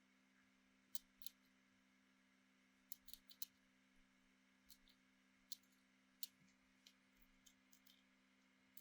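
Near silence with a faint steady low hum and scattered faint, sharp clicks at irregular intervals, about fifteen of them.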